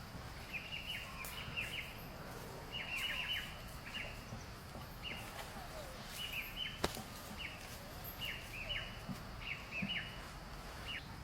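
Small birds chirping in short, quick clusters of falling notes that recur every second or so, with one sharp click about seven seconds in.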